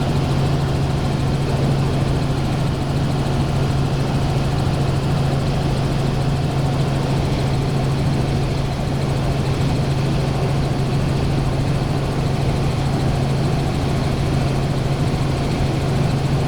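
Helicopter in flight: a steady, unchanging low drone of engine and rotor noise.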